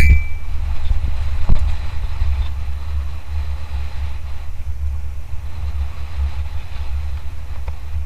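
Wind buffeting the camera's microphone during a mountain-bike descent: a loud, steady, uneven low rumble. A sharp click marks the very start and a smaller knock comes about a second and a half in.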